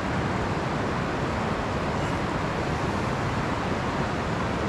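River water rushing steadily over rocks and rapids, an even hiss of flowing water.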